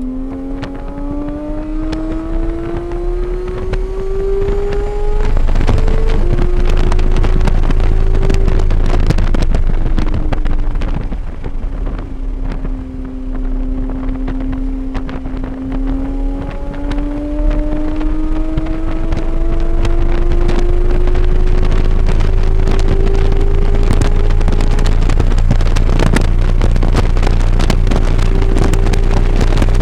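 Vehicle engine lapping a race track, heard onboard under heavy wind buffeting on the microphone. Its pitch climbs under acceleration for about five seconds with a short dip there, falls around ten seconds in as it slows, then climbs steadily again for about ten seconds.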